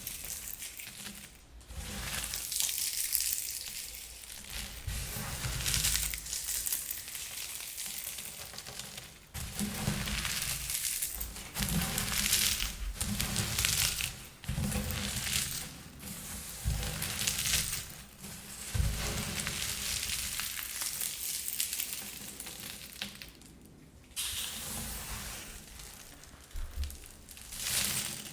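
Air-popped popcorn crushed by hand: repeated bursts of crackling crunches, one squeeze after another with short pauses between them.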